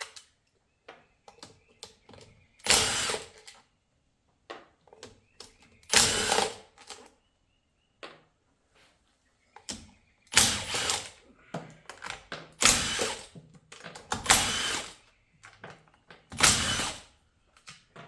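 A cordless power tool running in about six short bursts, each under a second, backing bolts out of an automatic transmission's valve body. Small clicks and taps come between the bursts.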